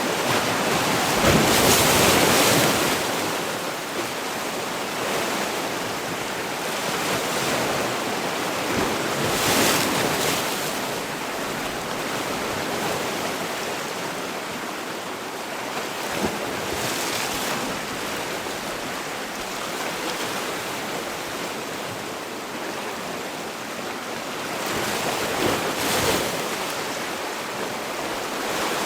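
Sea waves breaking and washing on the shore in a continuous roar of surf, with a louder wave breaking roughly every seven to eight seconds.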